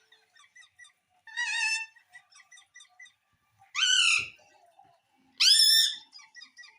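Pet parrot calling: three loud half-second squawks, each rising in pitch, with soft short chirps and chatter between them.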